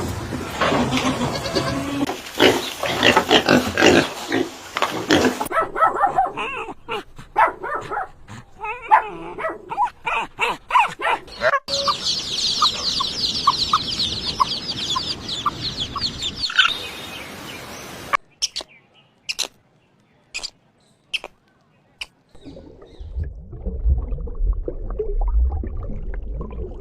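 A run of different animal calls and grunts, with a stretch of rapid, high twittering chirps in the middle and a low rumbling sound near the end.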